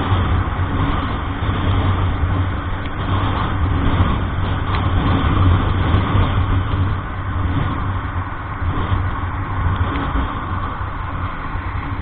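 A motor vehicle's engine running steadily with road noise, a constant low hum under a wide hiss, swelling a little midway and easing off near the end.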